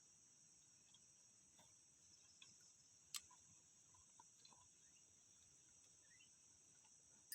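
Faint, steady high-pitched insect chorus, with a few scattered faint ticks and one sharper click about three seconds in.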